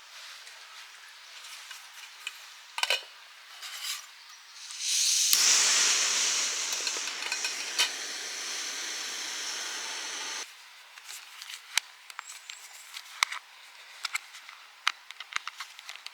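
Small clicks and knocks of camp gear being handled. In the middle comes a loud, steady rushing hiss lasting about five seconds, which starts and cuts off abruptly.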